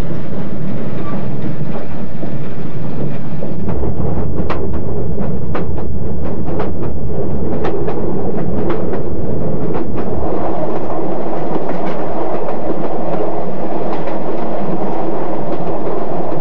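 Passenger train running on the rails, with a run of sharp clicks from the wheels crossing rail joints between about four and ten seconds in, then a steady rumble.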